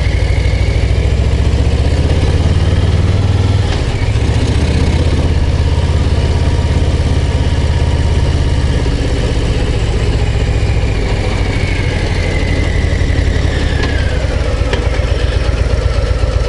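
Harley-Davidson Low Rider ST's Milwaukee-Eight 117 V-twin running steadily under way on the open road, its low exhaust note dominant, with a brief dip about four seconds in.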